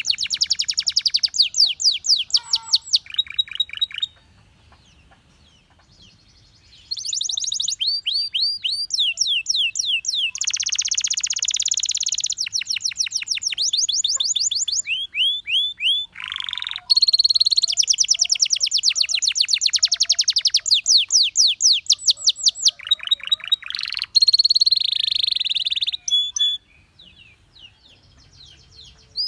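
Canary singing long phrases of fast trills, each a quick run of identical sweeping notes repeated many times a second, with the song switching from one trill to the next. It breaks off twice for a few seconds, about four seconds in and again near the end.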